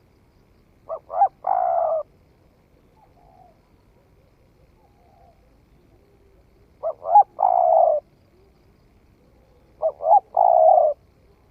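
Spotted dove cooing three times, each call two short notes followed by a longer drawn-out coo. The calls come about a second in, past the middle and near the end.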